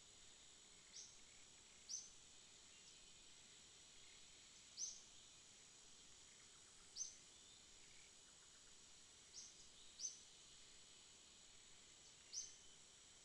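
Faint night ambience: a steady high-pitched insect drone, with a short, high chirp repeating every couple of seconds, sometimes two close together.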